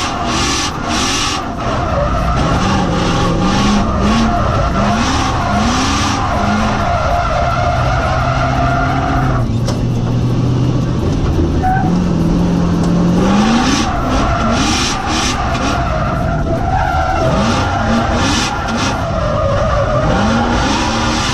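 BMW 4.4-litre V8 drift car revving up and down again and again while its tyres squeal through the slides. The squeal drops away for a few seconds around the middle, then returns.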